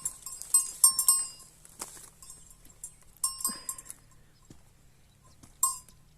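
Small metal bell clanking in quick irregular strikes for the first second or so, then twice more, around three and a half seconds in and near the end.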